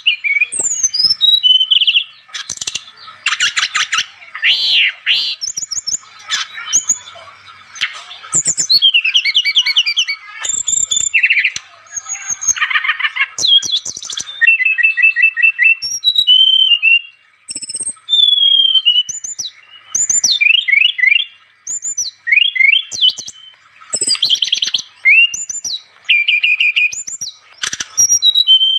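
Brown-chested jungle flycatcher (SRDC) singing continuously in full 'gacor' song: quick varied phrases of clear whistles, rapid trills, sliding notes and buzzy rattles, each phrase followed by a short pause.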